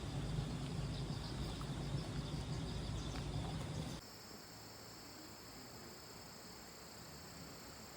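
Steady chirring of insects at an outdoor camp, a constant high drone. Under it, a louder low rumbling noise stops abruptly about halfway through.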